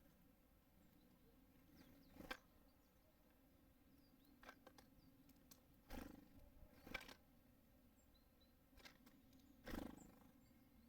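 Birds at a feeder: five or six soft, irregular knocks and taps as they land and peck, over a faint steady hum, with a few faint high chirps from small birds.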